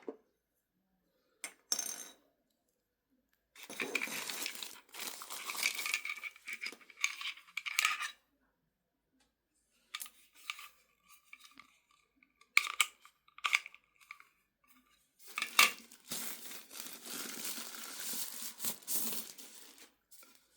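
Hands handling plastic parts and packaging: irregular spells of rustling and scraping with sharp clicks and clinks between them, the longest spells about four seconds in and near the end.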